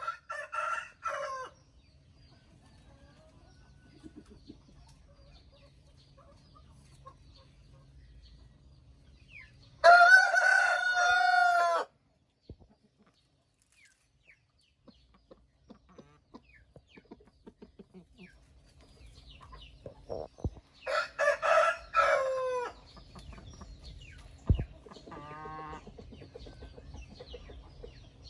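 Vietnamese rooster crowing twice, each crow about two seconds long, the first being the loudest. A shorter chicken call comes right at the start, and another after the second crow.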